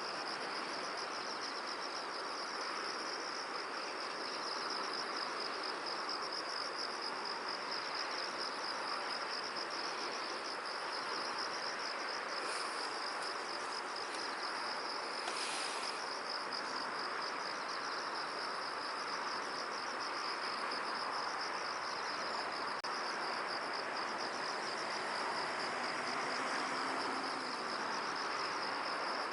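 Steady, high-pitched chirring of insects, a rapid even trill that never stops, over a soft hiss of wind through the field. A brief rush of hiss comes about halfway through.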